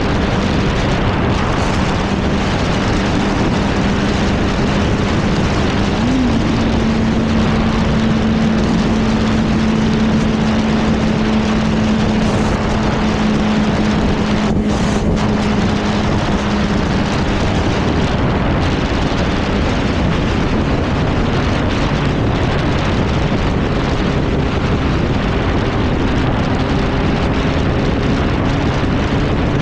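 Sport motorcycle cruising at speed, its engine holding a steady note under loud wind rush on the rider's microphone; the engine note drops lower about two-thirds of the way through.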